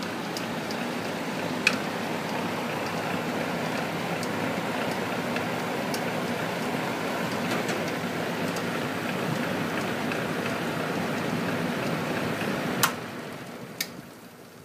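Vintage Rex belt-driven exhaust fan running with a dense, rough rattle and a few sharp ticks, a knocking the owner traces to the motor shaft and suspects comes from worn thrust washers or motor bearings. Near the end a sharp click, then the sound dies away as the fan winds down.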